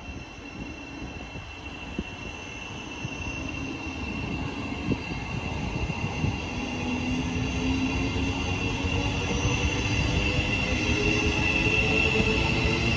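A train approaches and grows steadily louder. It has a low engine-like drone and a steady high-pitched squeal from the wheels on the rails, which gets stronger near the end.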